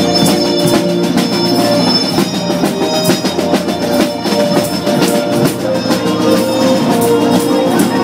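A holiday drum line playing snare and bass drums, many quick strokes over music with held notes.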